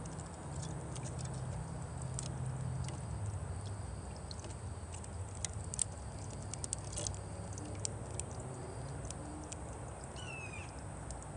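Bird sounds outdoors: scattered light clicks and taps throughout over a low steady rumble, with one short descending bird call about ten seconds in.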